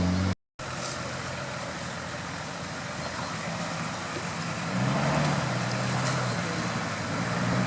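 Off-road vehicle engine running, revving up about five seconds in and easing off near the end, after a brief dropout at the start.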